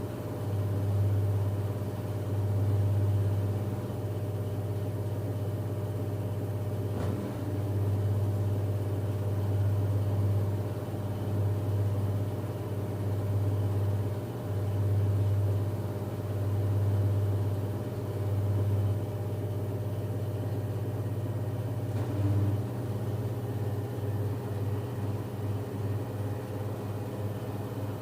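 LG F10B8MD washing machine in its final spin at 1150 rpm, giving a steady, low, humming whir that swells and fades every couple of seconds; from about 22 seconds in the swells turn into quicker pulses. By the owner's account the machine is not bouncing and the bearings are not humming, so the machine is healthy.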